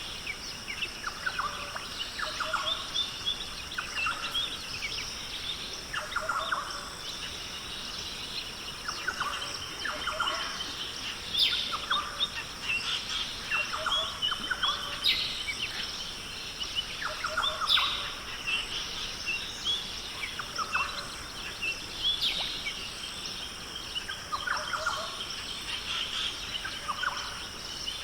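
Australian rainforest ambience: many birds calling and chirping over one another in short, repeated phrases. A steady high-pitched drone runs underneath.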